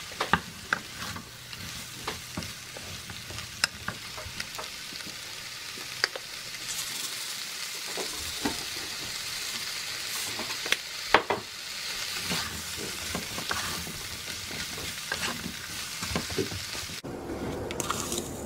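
Ham, mushrooms, onion and capsicum sizzling in oil in a frying pan while a wooden spatula stirs them, scraping and knocking against the pan many times. About a second before the end the sizzle cuts out and gives way to a lower, steadier sound from a pot of water heating on the stove.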